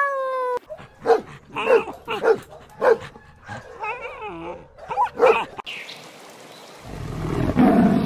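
A puppy barking in short high yips, about six of them, with a wavering whimper in between; the last moment of a kitten's meow comes just before. Near the end a louder low rumbling growl swells up.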